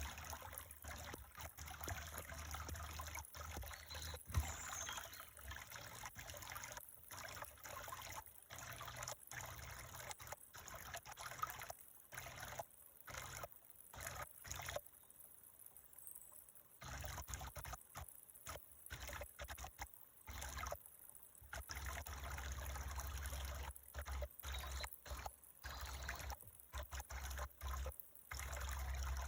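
Water trickling steadily, as from a small stream, with the sound cutting in and out briefly many times and dropping away for a couple of seconds in the middle.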